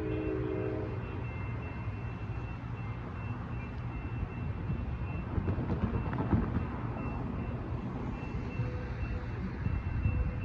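Altamont Corridor Express commuter train rolling through a grade crossing with a steady low rumble. Its horn chord cuts off about a second in, while the crossing bell keeps ringing in the background.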